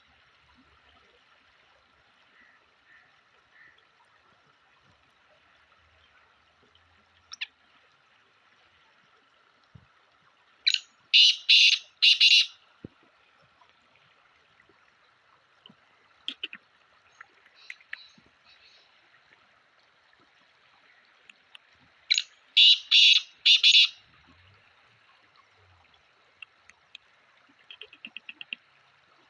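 Black francolin calling: two loud, harsh phrases of about four notes each, roughly eleven seconds apart, with faint clicks in between.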